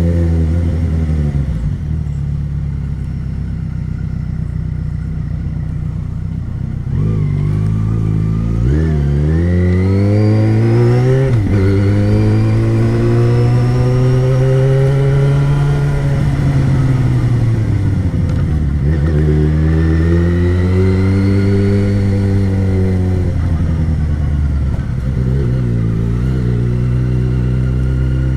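Yamaha XJ6's 600cc inline-four engine on the move. It holds a steady note at first; about seven seconds in the pitch climbs and drops in quick steps through gear changes. Then it makes a long rise and fall, rises and falls again, and settles back to a steady note near the end.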